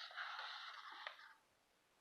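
Faint rustling of paper as a picture book's page is handled and turned, with a small tap about a second in, stopping abruptly shortly after.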